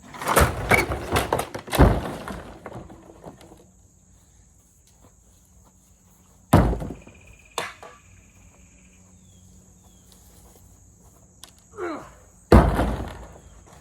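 A vacuum cleaner being smashed in a durability test: a few seconds of clattering crashes of hard plastic, then a single heavy thud, a lighter knock a second later, and another heavy thud near the end that dies away over about a second.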